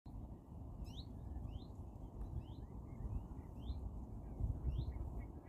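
A songbird repeating a short rising call note about once a second, with softer chirps between, over a steady low rumble.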